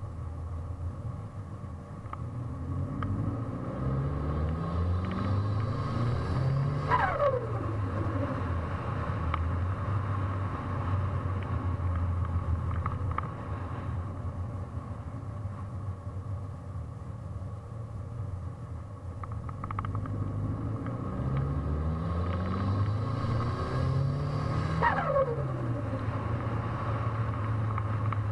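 Mitsubishi Lancer Evolution VIII MR's turbocharged four-cylinder engine climbs in revs twice. Each time the throttle closes, a falling turbo whistle follows with turbo flutter: the compressor surging as the turbo spins down.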